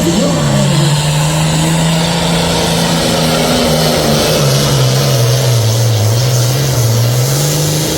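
Super Farm class pulling tractor's diesel engine running loud at high revs. Its pitch holds steady, sags for a couple of seconds from about five seconds in, then climbs back near the end.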